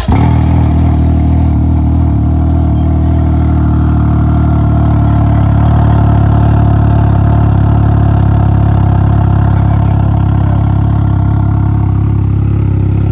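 Can-Am Ryker engine idling steadily right after starting, through a modified exhaust that gives it a loud, deep note.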